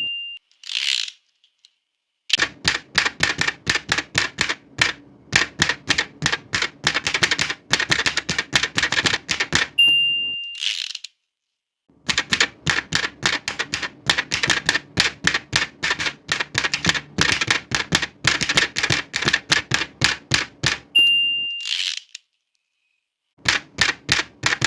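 Old manual typewriter being typed on in two long, rapid runs of key strikes. Each run ends with the end-of-line bell ding, followed by the swish of the carriage return. Another carriage return comes about a second in, and a new run of keystrokes starts near the end.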